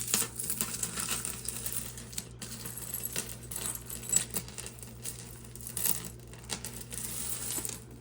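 Costume jewelry clinking and rattling as necklaces and beads are handled and sorted by hand: many small, irregular metallic clicks and jingles.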